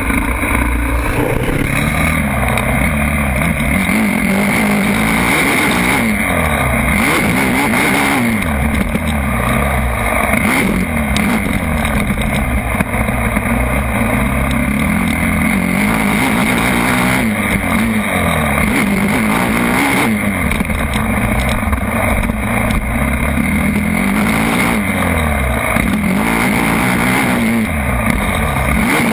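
Motocross bike engines running hard, the revs rising and falling again and again every few seconds as the throttle is opened and closed.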